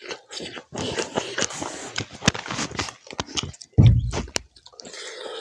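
Close-miked mouth sounds of eating pork curry with rice: wet chewing and lip smacking with many small sticky clicks. A short low thump about four seconds in.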